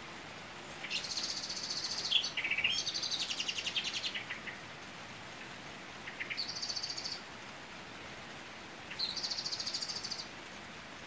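A songbird singing three high, rapid trilling phrases, the first the longest, over a steady hiss of rain.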